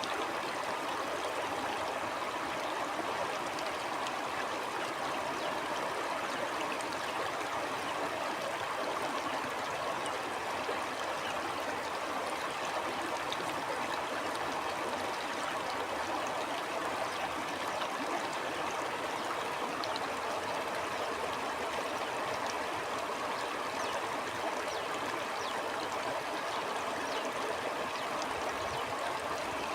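Stream water flowing steadily, with an even trickling and gurgling rush.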